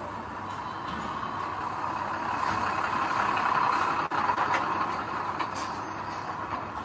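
Heavy construction machinery working: a steady, noisy machine sound that swells toward the middle, with a brief break about four seconds in.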